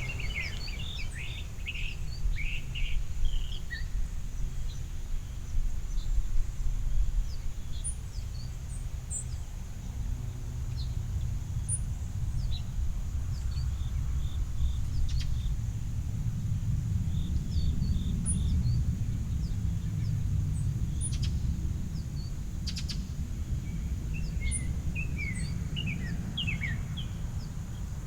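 Backyard birds giving many short chirps and call notes, scattered throughout, with a few quick slurred notes near the end. Under them runs a steady low rumble and a thin, steady high tone.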